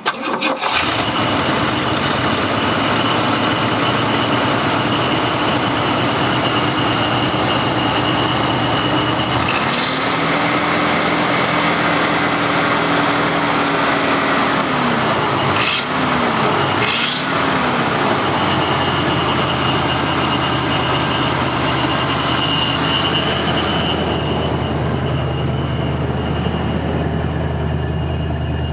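A 1977 Pontiac Grand Prix SJ's 400 cubic inch V8 with a four-barrel carburettor catches and runs, which the owner calls smooth, with a little exhaust leak on the passenger side. About ten seconds in it is revved and held higher, drops back around fifteen seconds, is blipped twice, then settles to a lower idle.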